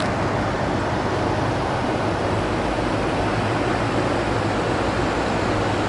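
Steady rushing outdoor noise with a low hum underneath.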